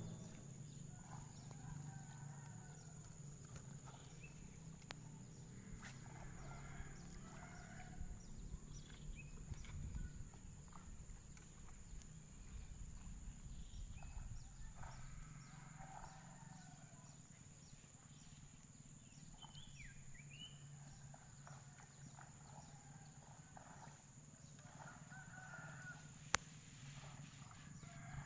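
Faint outdoor background: scattered distant chicken calls over a steady low hum and a thin, steady high tone.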